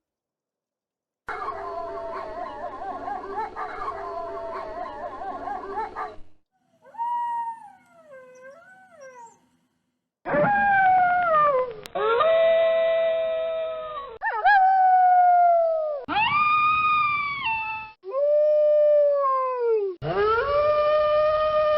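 Wolves howling: first several howls overlapping in a chorus, then after a short break a run of single long howls of about two seconds each that swoop up and hold their pitch, with abrupt cuts between them.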